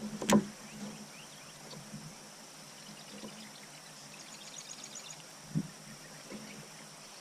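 Quiet outdoor lake ambience on a kayak, broken by a sharp knock about a third of a second in and a softer knock about five and a half seconds in, with faint high chirping in the middle.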